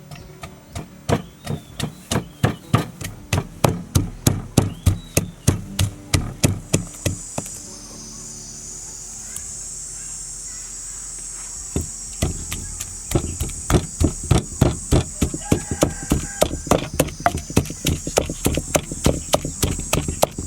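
Rapid, even chopping or pounding strokes, about three a second, which stop for a few seconds midway and then resume. A steady high insect chirr joins about a third of the way in.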